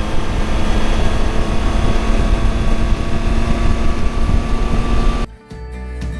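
Triumph Tiger 800's three-cylinder engine running steadily at road speed under heavy wind noise. About five seconds in it cuts off suddenly and strummed acoustic guitar music takes over.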